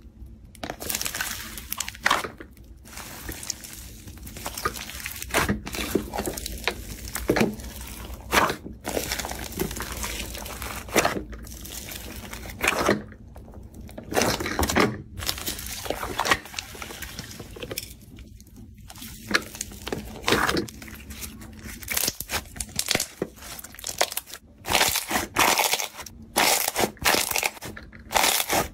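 Slime being squeezed, stretched and pressed by hand, giving irregular crackling and crunching noises with sharp snaps and brief pauses.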